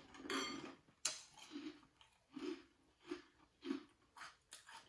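A person chewing a mouthful of cereal close to the microphone, in soft, crunchy chews about every half second, with one sharp click about a second in.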